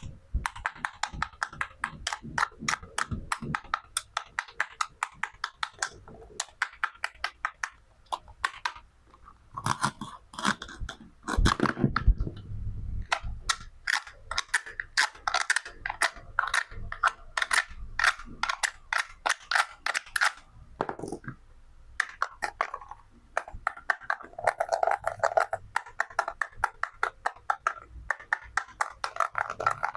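Toy fruit and vegetables being cut with a toy knife: a quick run of sharp clicks and taps, often several a second, with a louder, crunchier stretch about twelve seconds in.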